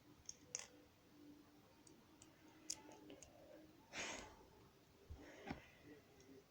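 Faint scattered clicks of plastic Lego pieces being handled and fitted together, with a short hiss about four seconds in.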